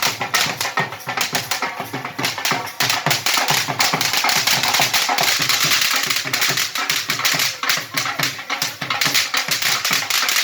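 Fireworks crackling in a dense, irregular run of rapid pops and snaps, with music also present.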